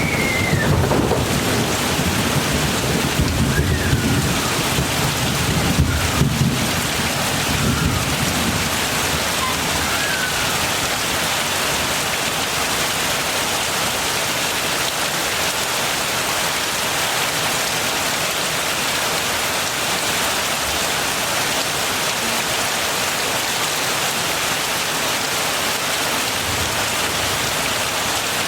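Heavy rain falling steadily, with a low rumble of thunder dying away over the first several seconds.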